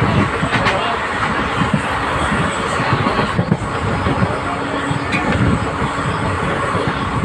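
Indian Railways express passenger coach running on the rails, heard from inside: a steady, loud rumble of wheels and running gear with many small knocks.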